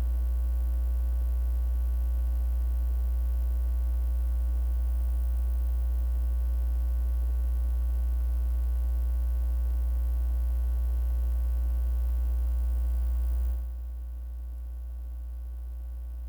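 Steady low electrical hum with a row of buzzy overtones above it, typical of mains hum in a sound system. It drops noticeably in level about 13 seconds in.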